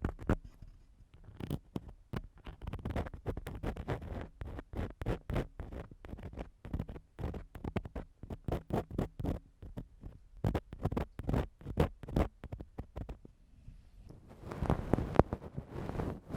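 Ear-cleaning tool scratching and scraping against a microphone in quick, irregular strokes, imitating ear cleaning. A bit before the end it turns into a denser, continuous rubbing.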